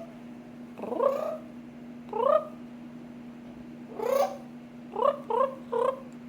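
Pet parrot giving short rising trilling calls: three spaced a second or two apart, then three quick ones in a row near the end. A steady low hum runs underneath.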